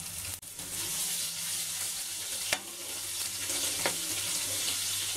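Chopped green chillies sizzling in hot oil with mustard seeds, cumin and garlic in a steel kadhai, stirred with a wooden spatula. A steady frying hiss, with a few short clicks of the spatula against the pan.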